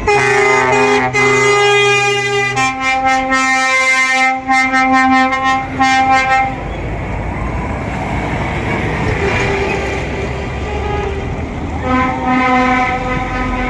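Truck horns blowing in long, steady blasts, with two or more horns at different pitches sounding together and breaking off briefly a few times. This is followed by a stretch of vehicle rumble, then another horn blast near the end.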